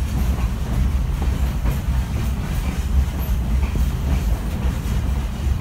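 Railroad passenger car rolling along the track: a steady low rumble with faint, irregular clicks from the wheels on the rails.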